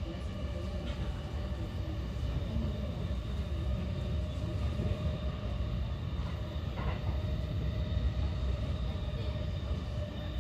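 Running noise inside a JR E233-8000 series electric commuter car: a steady rumble of wheels on rail, with a faint steady tone running through it.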